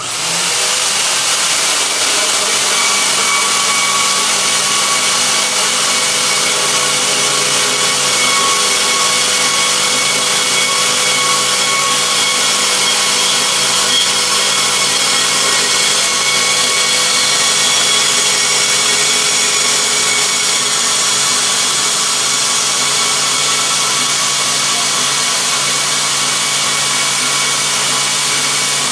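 Corded portable bandsaw starting up and running steadily with a motor whine as it cuts through 2-inch square steel tube with a thick 1/8-inch wall.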